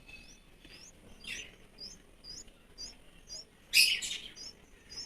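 A small bird chirping over and over, short high chirps about two a second, with two louder, harsher calls about a second in and near four seconds in.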